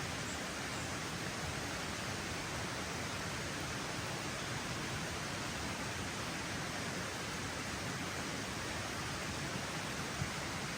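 Steady rain falling, an even hiss without pauses, with one small tick near the end.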